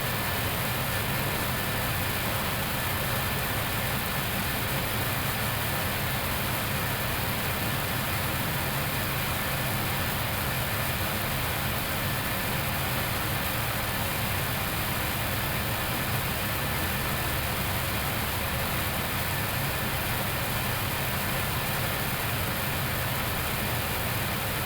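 Steady flight-deck noise of an Airbus A321neo on final approach in landing configuration, gear and flaps down: a constant rush of airflow over the cockpit with low engine hum and a couple of faint steady whining tones.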